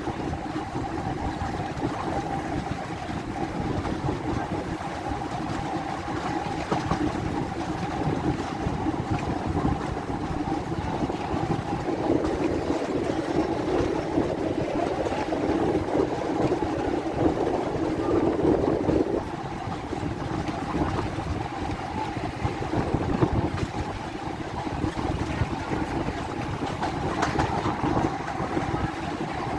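Passenger train running along the track, heard from an open door of the carriage: a steady rumble of wheels and engine that grows louder for about seven seconds in the middle.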